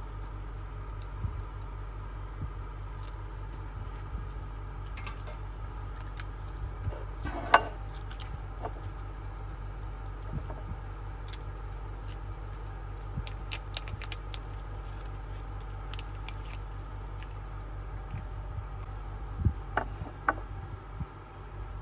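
Steady machine hum with scattered small clicks and taps of things being handled, and one sharper clink about seven and a half seconds in.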